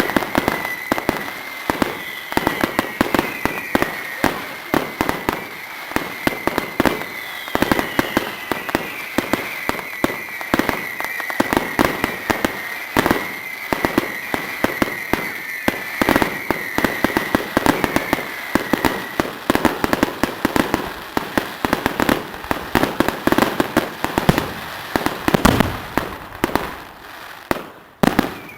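Fireworks display: a dense run of bangs and crackles from exploding shells, with a high whistle running under them that falls in pitch a couple of times and fades out about two-thirds of the way through.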